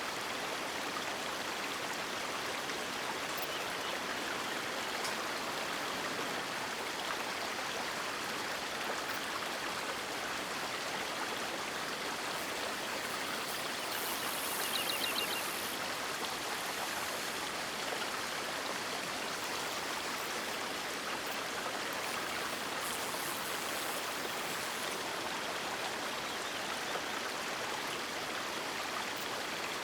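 River water rushing and falling in a steady, even wash. A brief high-pitched sound comes about halfway through.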